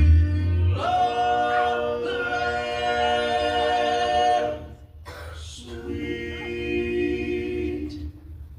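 Male gospel vocal quartet singing long held chords in close harmony at the end of a song, with a brief break between two sustained chords.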